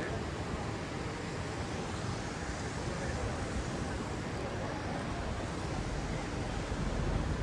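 Steady rush and splash of fountain water, with faint voices of people nearby. A low rumble comes up near the end.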